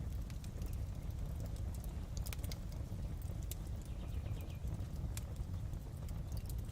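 Fireplace crackling: scattered sharp pops and snaps over a steady low rumble of burning logs, with a quick little run of ticks about four seconds in.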